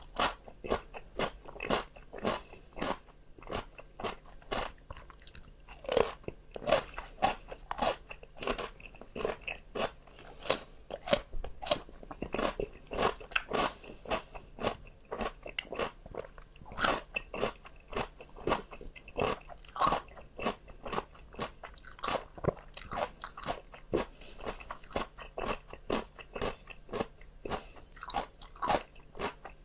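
A person biting and chewing crisp raw vegetables close to the microphone: a rapid run of sharp, wet crunches, several a second, with no talking.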